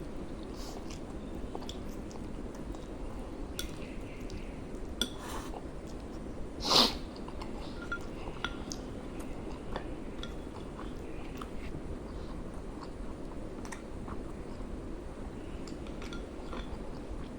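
A person chewing and eating noodles, with small clicks of cutlery against a dish and one short, louder sound about seven seconds in, over a steady background noise.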